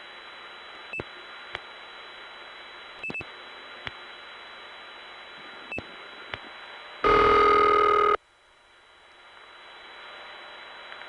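Telephone line during a call through a step-by-step tandem to an inward operator: line hiss with scattered switching clicks, then one loud, buzzy ring of ringback tone about a second long, seven seconds in.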